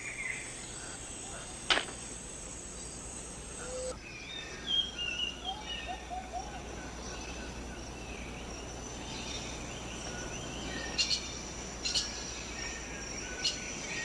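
Rainforest ambience: a steady high-pitched insect drone with scattered short bird chirps and a few sharp clicks. The drone changes character about a third of the way in.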